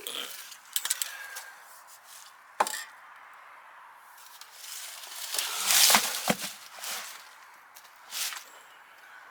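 A few sharp clicks and knocks of things being handled, then a hiss lasting about a second and a half a little past the middle, the loudest sound, and a shorter hiss near the end.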